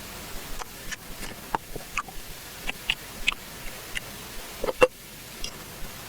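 Eating mouth sounds: irregular wet chewing clicks and smacks, with the loudest smack a little before five seconds in.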